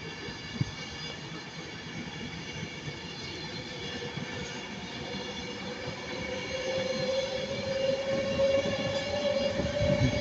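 Passenger train approaching through the station, a whine rising slightly in pitch and growing louder over the second half.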